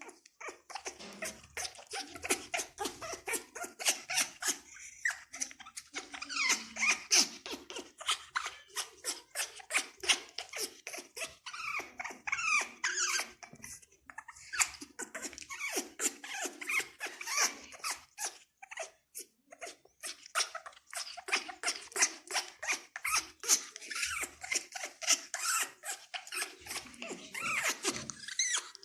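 A pet parrot making short chirping and squeaking calls over a dense run of quick clicks, several a second.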